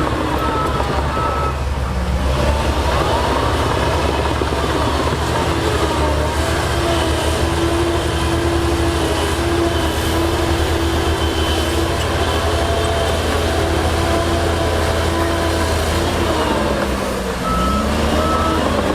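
Heavy earthmoving machinery running with a steady low diesel drone, its engine note rising and falling. A reversing alarm beeps in an even rhythm at the start and again near the end.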